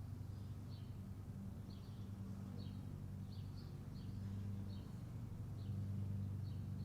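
A small bird chirping over and over, short high notes that drop in pitch, about one or two a second, over a steady low hum.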